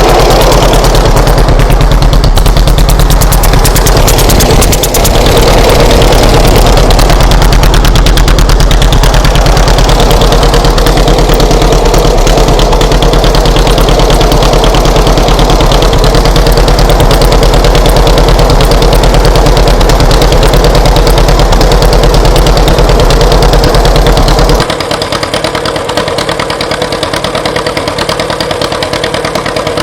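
1940 John Deere Model B two-cylinder engine running after a hand flywheel start, its exhaust popping in a rapid, loud, even beat. About 25 seconds in the sound drops sharply to a quieter level.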